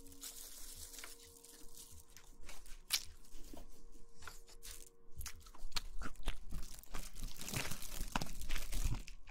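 Close-miked ASMR crunching and crackling: scattered sharp clicks over a soft rustle, growing busier and louder about halfway through.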